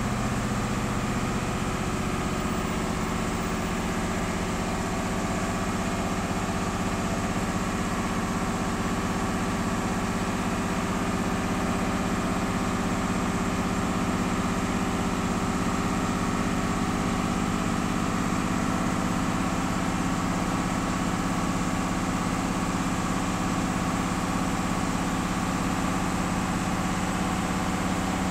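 Blue Bird school bus engine idling steadily while its air compressor builds the air-brake pressure back up to full.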